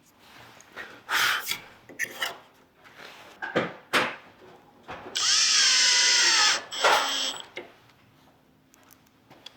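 A power drill runs for about a second and a half, its whine dipping and rising in pitch, after a few short scraping and knocking sounds of wood being handled.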